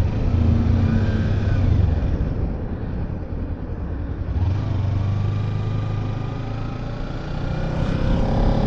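Kawasaki Ninja 300's parallel-twin engine running while the motorcycle is ridden, with road and wind rumble. The engine note eases off for a couple of seconds in the middle, then holds steady again and rises in revs near the end.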